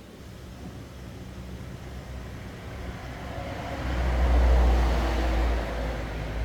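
A low engine rumble that builds, peaks strongly about four seconds in, and eases toward the end.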